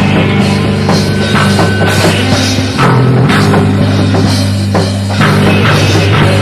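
Live improvised rock music played by a trio: a drum kit beating steadily under sustained, shifting bass and guitar notes, loud, with the raw sound of a recording made without a sound check.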